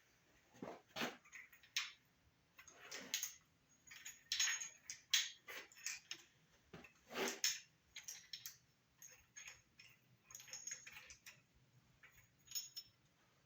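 Metal engine parts clinking and clunking irregularly as they are handled and set into a small-block V8 during valvetrain assembly, with a few sharper knocks.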